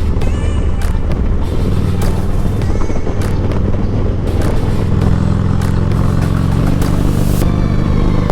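Harley-Davidson V-twin motorcycle engine running steadily while riding, with scattered short knocks over the engine note.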